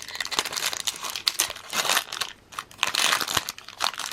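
Foil Pokémon booster pack wrapper crinkling as it is torn open by hand, in dense, irregular crackles.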